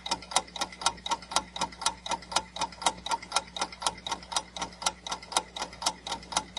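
Countdown-timer sound effect of a quiz: a clock ticking evenly, about four to five ticks a second, over a faint steady hum, while the answer time runs.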